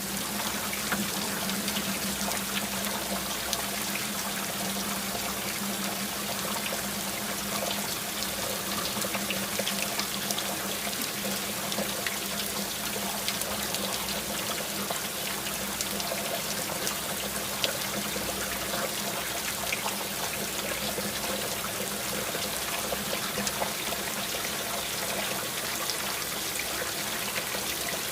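Steady rain falling, with many small drop hits and water trickling and dripping, as from runoff or a gutter.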